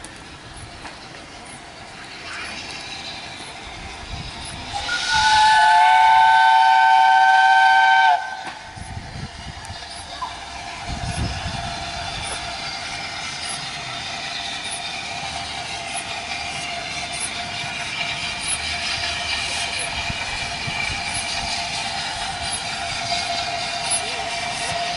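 Peppercorn A1 steam locomotive 60163 Tornado's whistle blown once for about three seconds, several notes sounding together. After that comes the steady sound of the train running, growing slowly louder.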